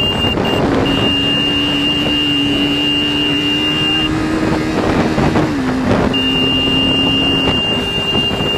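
KTM RC 390's single-cylinder engine running under way, its pitch climbing slowly, then dipping about five and a half seconds in and holding lower, with wind rushing over the microphone.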